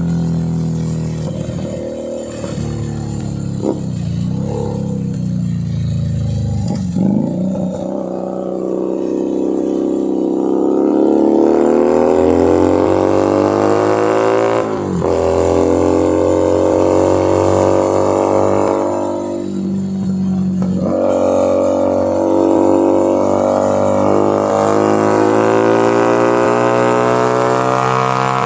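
Keeway SCR 250V motorcycle's engine and exhaust while riding, its pitch rising and falling with the throttle. It climbs steadily under acceleration, drops sharply at a gearshift about halfway through, eases off briefly, then pulls again.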